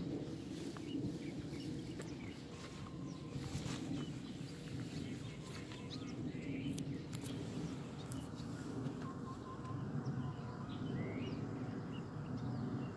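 Outdoor ambience: scattered short bird chirps over a steady low background hum, with a few faint clicks.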